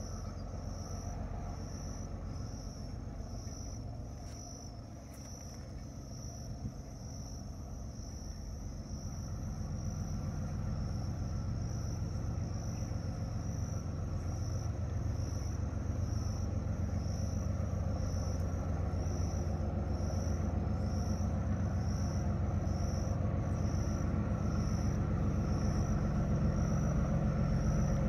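Low rumble of a freight train's diesel locomotives approaching, growing steadily louder from about a third of the way in. Above it, an insect chirps in a steady, evenly repeating pulse.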